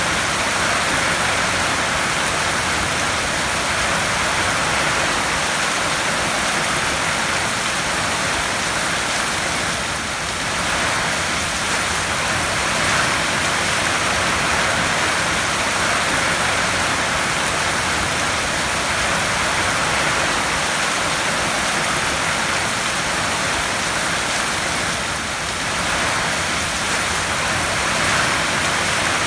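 Heavy rain drumming on a tin roof in a steady, dense hiss that eases slightly twice.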